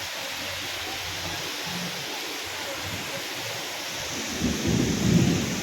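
Heavy rain falling steadily. About four seconds in, a low rumble of thunder swells up, louder than the rain.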